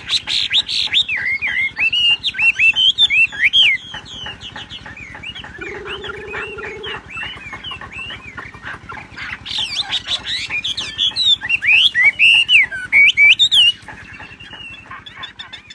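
Wambi songbird singing hard in fast runs of chirps and sweeping twittering notes, loudest in two stretches, one early and one from about ten seconds in. A short low steady tone sounds about six seconds in.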